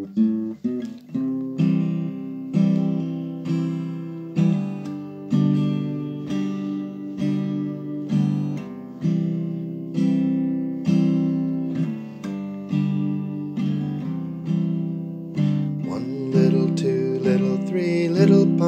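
Guitar strumming chords at a steady pace, about one strum a second, each chord left to ring; a voice begins singing over it near the end.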